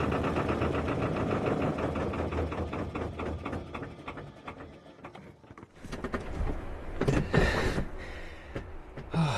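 Narrowboat's diesel engine running with an even beat, then slowing and stopping about five seconds in, shut down because weed is fouling the propeller. Then knocks and clattering follow, with a sharp clunk near the end.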